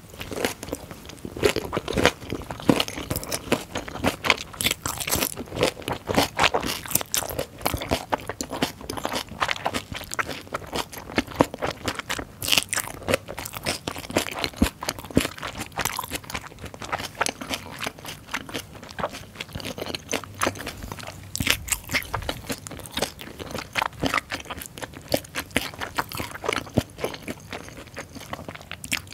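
Close-miked chewing of a mouthful of hongeo samhap (fermented skate, pork and aged kimchi): a dense run of wet, crisp crunches, several a second.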